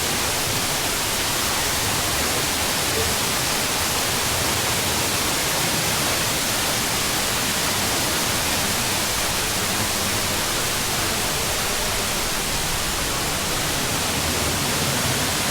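Steady rush of falling water from a waterfall, an even roar that does not change.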